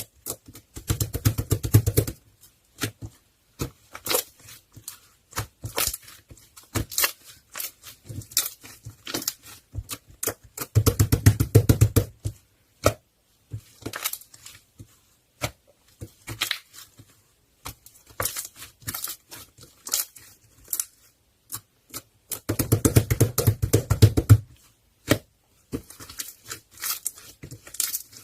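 Close crackling and tearing noises made of short irregular clicks, with three longer bursts of rapid crackling about ten seconds apart.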